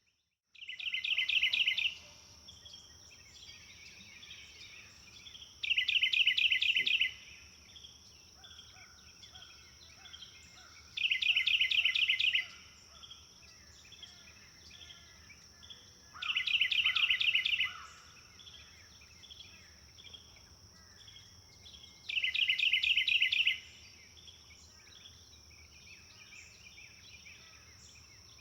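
Birdsong: one bird repeats a loud, fast trill about a second and a half long five times, roughly every five seconds, over softer chirping from other birds and a steady high-pitched buzz.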